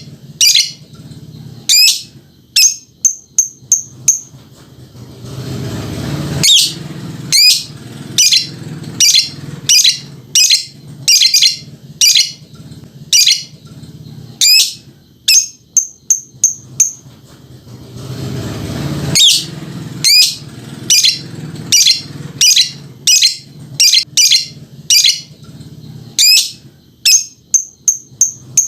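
Lovebird's 'ngekek' song: a long, unbroken string of sharp chirps, about two a second, with short runs of four quick high notes coming back every dozen seconds or so. A low rumble swells and fades underneath.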